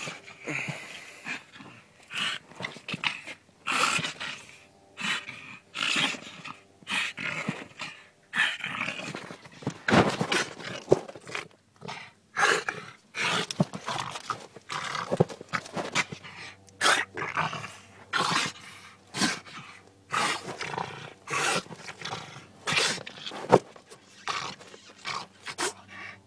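A dog growling in a long run of short bursts, roughly one a second.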